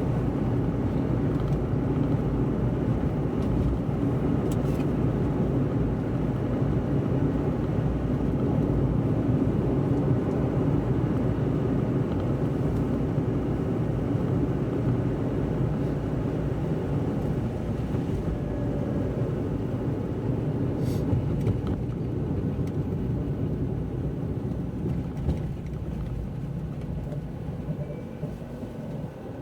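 Car driving on a wet road: a steady rumble of tyres and engine, growing quieter near the end.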